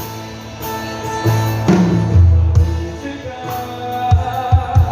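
Sertanejo band playing an instrumental passage between sung lines, with guitar, bass and drum hits; a voice comes in faintly near the end.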